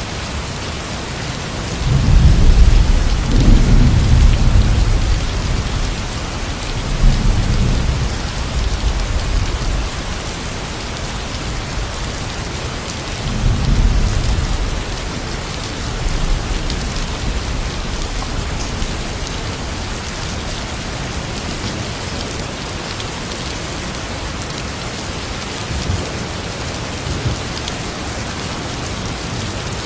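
Steady rain falling, with deep rolls of thunder swelling through it. The loudest rumble comes about two seconds in and lasts a few seconds, weaker ones follow around seven and fourteen seconds in, and a faint one near the end.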